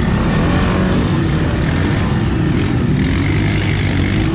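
ATV engines running hard in the mud, revving up and down, with the pitch climbing about three seconds in.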